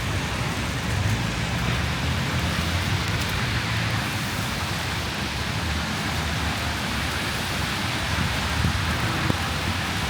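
Strong storm wind rushing past a small handheld camera's microphone in blowing snow, a steady hiss over an unsteady low rumble of wind buffeting the mic.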